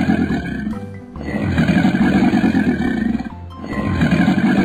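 Crocodile growl sound effect: a rough, low growl, repeated in bursts of about two seconds with short breaks between, over background music.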